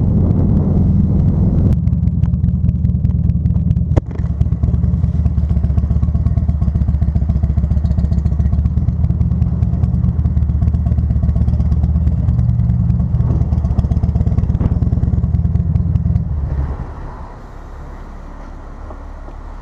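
Motorcycle engine running steadily with a low rumble, with a single sharp click about four seconds in; the engine sound drops away about sixteen seconds in, leaving lighter background noise.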